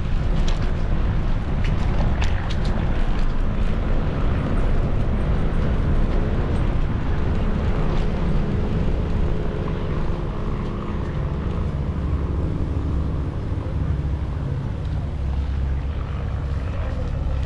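Wind buffeting the microphone of a bike-mounted action camera while riding, with steady rolling noise from the bike and a few sharp clicks in the first few seconds.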